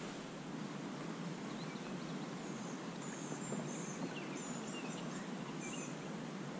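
Faint, high-pitched bird chirps, a few short calls scattered through the middle, over a steady outdoor background hiss.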